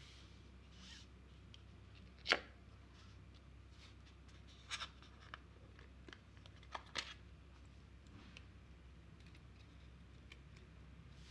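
Handling of an iPhone 13 Pro and its box and packaging: a few soft taps and clicks with faint rustling, the sharpest about two seconds in and two more around five and seven seconds.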